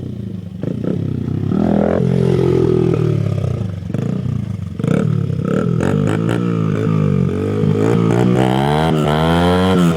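Dirt bike engine revving up and down while being ridden, its pitch rising and falling over and over. It drops off briefly about half a second in and again around four and a half seconds, then climbs in a long rising rev near the end.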